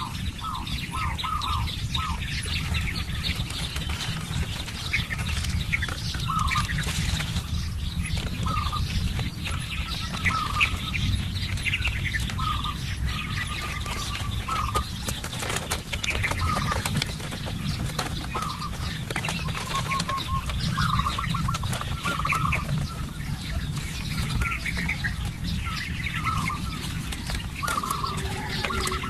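Several small birds chirping in short, repeated calls, over a steady low rumble.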